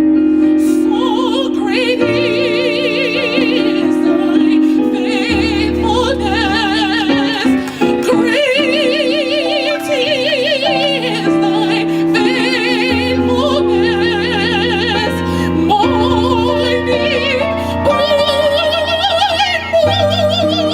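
Gospel choir singing long held notes with strong vibrato, over a sustained accompaniment with low bass notes.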